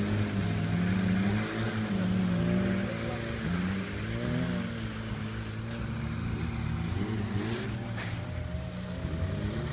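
Renault Dauphine Gordini's small rear-mounted four-cylinder engine revving up and down over and over as the car is driven hard through the corners, its pitch rising and dropping about once a second.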